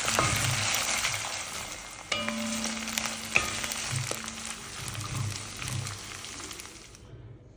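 Dried anchovies, onions and chillies sizzling in oil in a cast-iron wok, with the scrape and tap of a wooden spatula stirring them. The sizzling gradually dies down and stops near the end.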